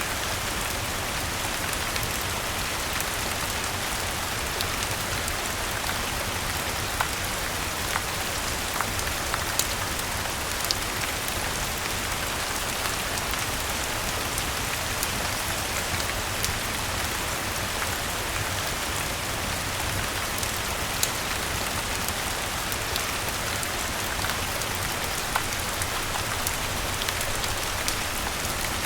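Steady rain falling, an even hiss, with scattered sharp ticks and pops through it.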